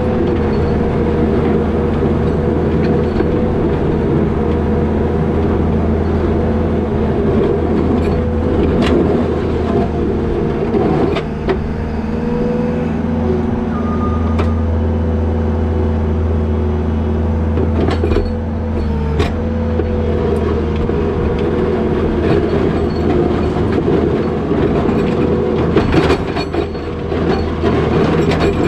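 A New Holland L220 skid steer's diesel engine running steadily under load, with a steady whine over it and occasional sharp knocks and clanks.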